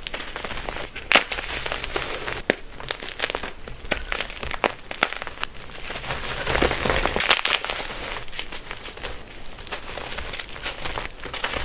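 Blocks of compressed gym chalk being crushed, crunching and crumbling with a dense run of small crackles and sharp snaps, busiest a little past the middle.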